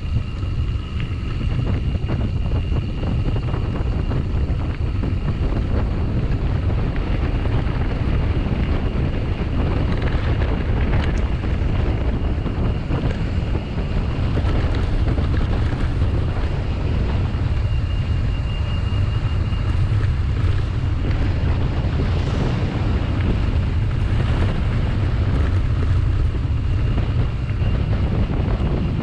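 Wind buffeting the microphone of a camera carried on a moving bicycle: a steady, dense rumble, with a thin high whine above it.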